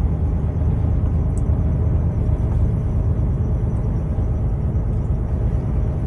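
Semi-truck's engine and road noise while driving, a steady low rumble.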